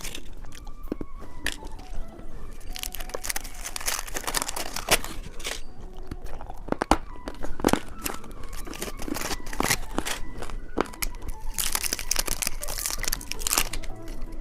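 Plastic candy wrapper crinkling and being torn open by hand, with many irregular sharp crackles and clicks.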